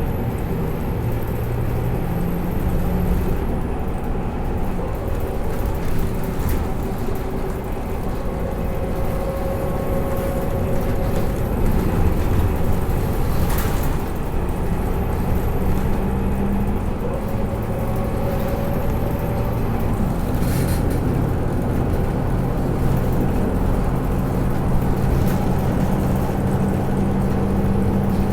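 Diesel engine of a Scania K310UA articulated bus running steadily, its low pitch stepping up and down a few times.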